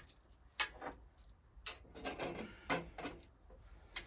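Light knocks and clicks of a motorcycle exhaust down pipe and its nut, washer and bracket being handled and fitted, about six separate taps spread over a few seconds.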